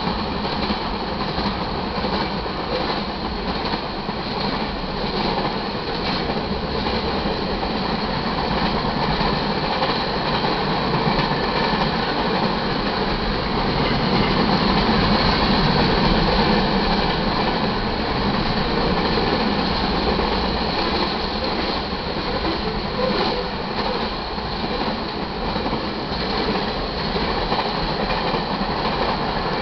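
Freight cars of a mixed freight (manifest) train rolling past at speed: a steady rumble with wheels clicking over rail joints, swelling a little midway.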